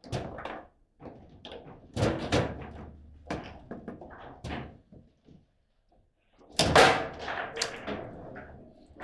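Table football in play: the ball struck by the rod figures and banging against the table, in sharp clattering knocks and slams. Loud clusters of hits come about two seconds in and again around seven seconds, with a short lull between.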